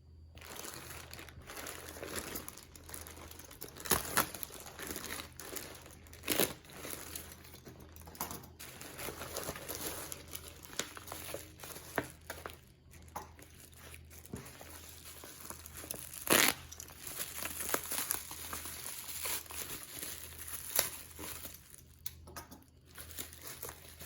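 Packaging being crinkled, handled and torn open by hand, an unboxing: irregular rustling throughout, with a few sharp clicks or snaps, the loudest about four, six, sixteen and twenty-one seconds in.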